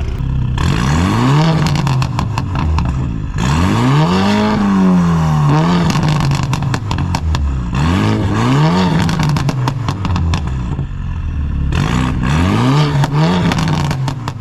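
Modified sports-car exhaust being revved in free-revving blips from idle, about six times, with one longer rev a few seconds in that is held and then falls back.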